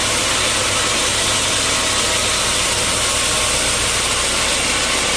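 Sawmill machinery running steadily: a low engine hum under a constant loud hiss, with no change in pace.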